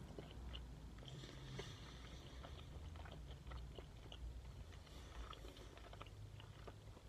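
A person chewing a mouthful of slow-cooked pig's tongue: faint, soft, irregular mouth clicks and squelches.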